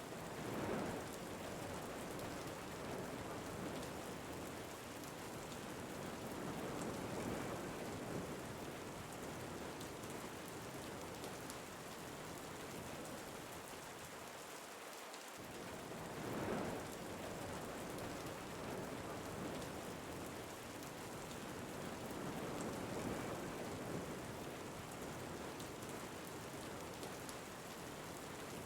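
Ambient recording of steady rain with wind, swelling and easing in slow gusts; the same pattern of swells comes round again about every fifteen seconds, as in a looped track.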